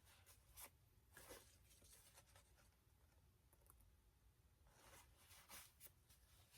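Near silence: room tone with a few faint, brief scraping and rustling sounds from hands handling small objects.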